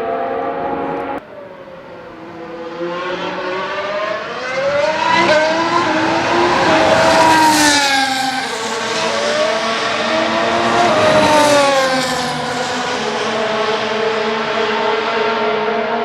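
Formula 1 cars' turbocharged V6 hybrid engines running at high revs and passing by, their pitch sweeping up and then falling as they go past. The loudest passes come about seven and eleven seconds in, and there is an abrupt drop in level about a second in.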